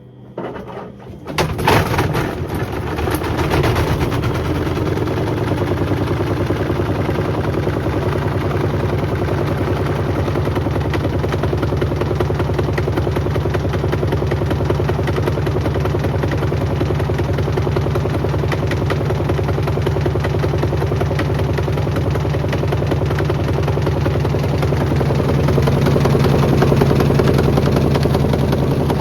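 Beko WM74135 washing machine running with a 5 litre bottle in its drum: the motor comes up to speed about a second in, then runs steadily with a constant hum, growing slightly louder near the end.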